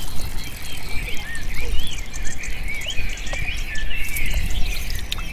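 Many small birds chirping over one another in quick, short rising and falling calls, over a steady low rumble.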